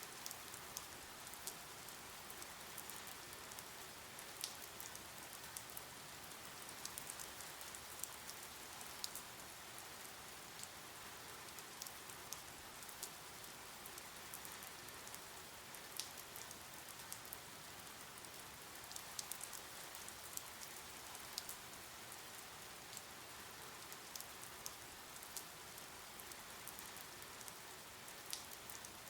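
Steady rain falling: an even, soft hiss with scattered sharp drip and tap sounds from drops landing.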